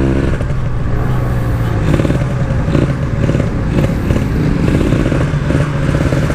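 Two-stroke motorcycle engine, a Kawasaki Ninja engine fitted in a Yamasaki bike, running at a steady pace while the bike is ridden.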